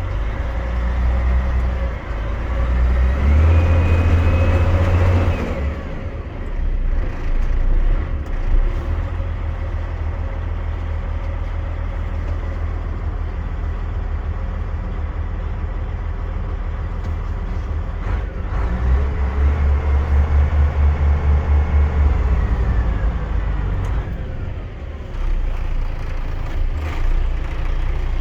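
DAF CF 85.460 truck's diesel engine running, revving up twice, each time with a whine that rises and holds before dropping back to the steady run.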